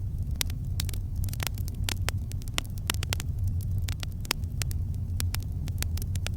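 Campfire crackling: sharp, irregular pops and snaps, several a second, over a steady low rumble.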